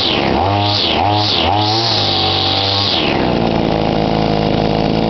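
Victa Tornado Plus 26cc two-stroke line trimmer engine revved in a few quick throttle blips, then held at high revs for about a second and a half before dropping back to a steady idle.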